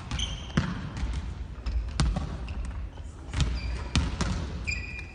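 Volleyballs being struck and bouncing on a gym court floor, a string of sharp smacks a second or less apart, with athletic shoes squeaking on the floor near the start and near the end.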